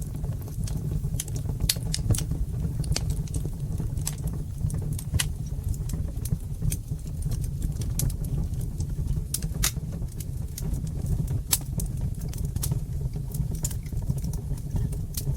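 Wood fire crackling in a fireplace: sharp, irregular snaps and pops, several a second, over a steady low rumble of the flames.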